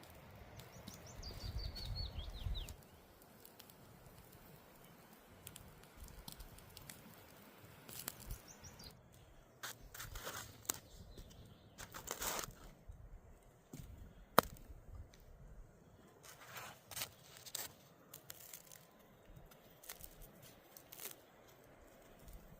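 Quiet outdoor ambience: a quick run of bird chirps about a second in and another briefly later, with scattered clicks and rustling.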